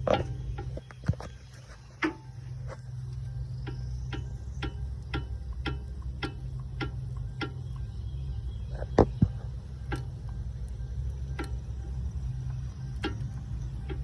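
Regular ticking, about two ticks a second, over a low steady hum, with two sharper knocks close together about nine seconds in.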